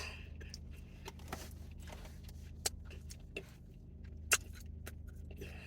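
Inside a car, a faint steady low hum with scattered small clicks and taps, the loudest a little past four seconds in.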